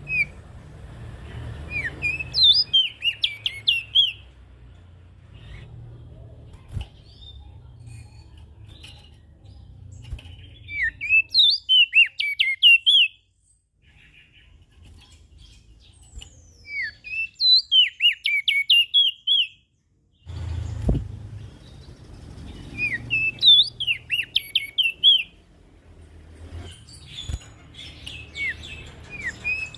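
Prenjak daun songbird singing in repeated bouts of rapid, sharp, high chirping notes, a burst every five seconds or so, over a faint low rumble.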